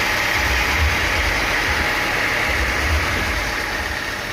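Sawmill engine running steadily, with a low throb that swells and fades about once a second under an even mechanical noise.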